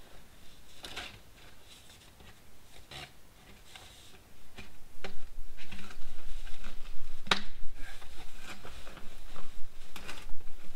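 Irregular small clicks, knocks and rubbing in a small enclosed space, much louder from about four seconds in, with a sharp knock a little after seven seconds.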